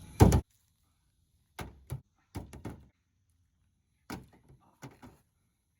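A loud sharp thump, then several shorter, fainter knocks and thuds in small clusters with silence between them.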